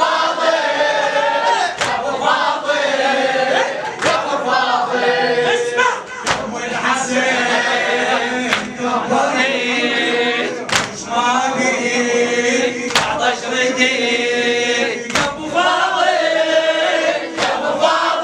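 A group of male voices sings a Shia latmiyya mourning chant together, with a sharp beat striking about every two seconds.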